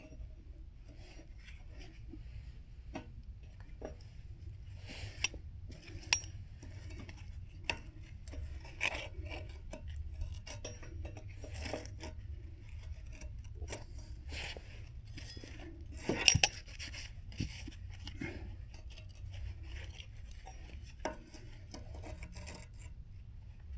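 Scattered metal clinks, knocks and scraping as steel pieces and tools are handled, with a louder clatter about two-thirds of the way through, over a low steady hum.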